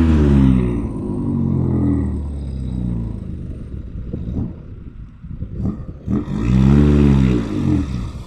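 Isuzu NPR115 truck's diesel engine revving, its pitch falling away from a high rev at the start, then running lower with scattered knocks and rattles, before revving up and dropping back again near the end.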